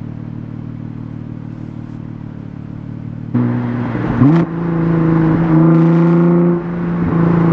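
Nissan GT-R R35's twin-turbo V6 running at a low, steady drone, then about three seconds in it gets abruptly louder, revs up quickly and holds a steady higher engine note as the car accelerates.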